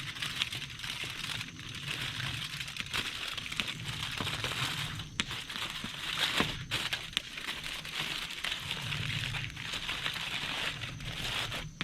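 Aluminium foil being folded and crinkled into a packet around buttered potatoes, a continuous crackly rustle with many small crinkles.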